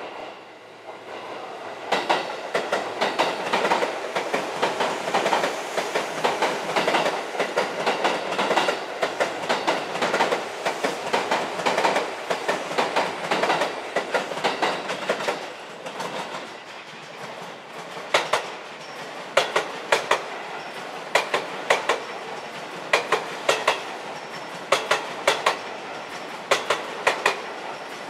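Seibu 20000-series electric commuter train rolling in over station points and rail joints: a dense run of rapid wheel clacks, then sharper clacks in evenly spaced pairs as the cars roll slowly past.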